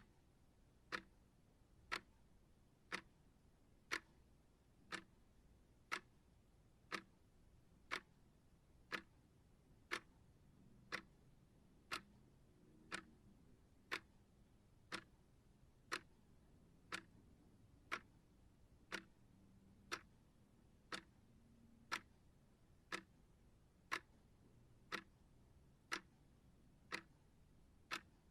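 Timer ticking like a clock, one sharp tick each second, steady and even.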